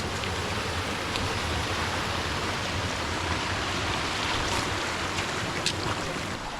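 Mountain stream flowing over rocks: a steady, even hiss of running water, with a few short faint high clicks.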